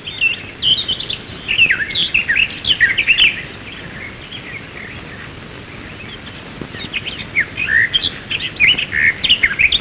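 Birds chirping: many quick, high chirps and short calls in two lively spells, with a quieter stretch of a few seconds in the middle.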